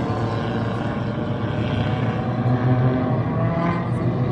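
Engines of front-wheel-drive race cars running around the oval track, a steady droning hum with several engine pitches overlapping.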